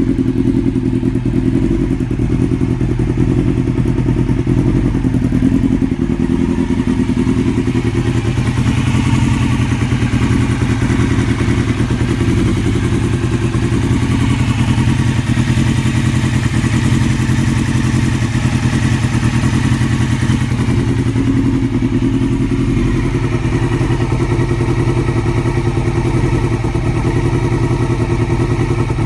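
2002 Yamaha R6's inline-four engine running at a steady idle with a persistent ticking from the top end around the cams. The owner fears it is the valves; a manual cam chain tensioner has already been fitted.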